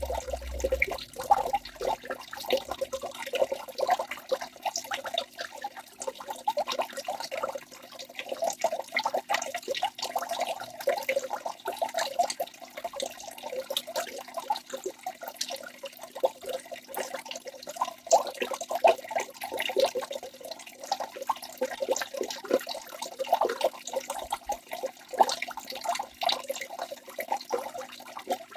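Waterfall: water splashing and trickling continuously in a busy, even patter of small splashes.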